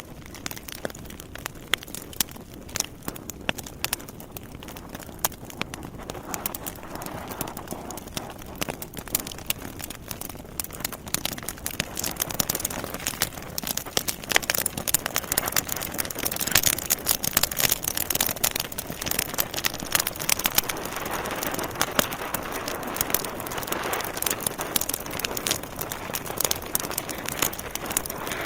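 Wood fire burning in a fireplace: logs crackling and popping in dense, irregular snaps over a steady hiss of flames, growing louder over the first ten seconds or so.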